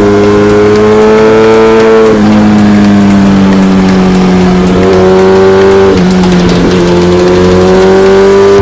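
Suzuki GSX-R1000R inline-four engine running under load while riding. Its note climbs slowly and dips twice, about two seconds in and about six seconds in.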